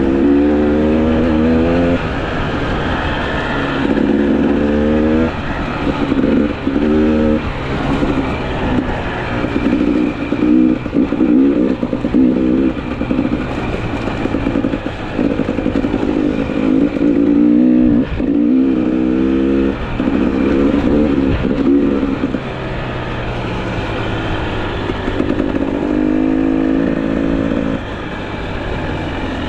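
GasGas EC300 single-cylinder two-stroke motorcycle engine under hard acceleration, its pitch climbing and dropping back over and over as the rider shifts up through the gears.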